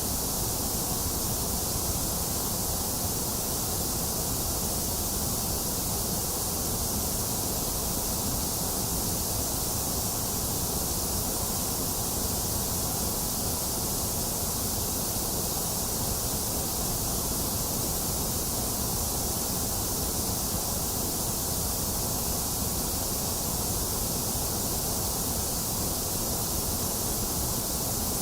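Box fan running steadily, mixed with falling rain, as one continuous, unchanging rush of noise.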